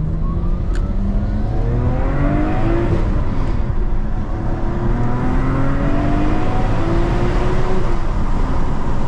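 Nissan Skyline GT-R R34's twin-turbo RB26 straight-six accelerating through the gears: the engine note climbs, drops at an upshift about three seconds in and again near the end, and climbs once more.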